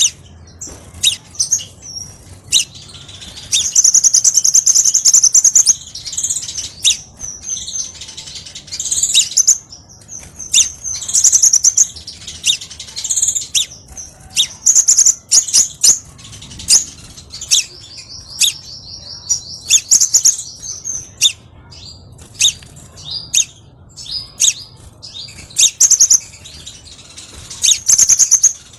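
Crimson sunbird singing: sharp, high-pitched chips mixed with fast high trills, the longer trills lasting two to three seconds.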